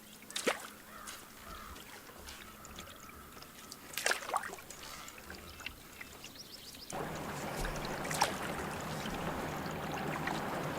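Canoe paddle strokes in lake water: a splash every few seconds with trickling drips between. About two-thirds of the way through, a louder, steady hiss of water or wind sets in suddenly.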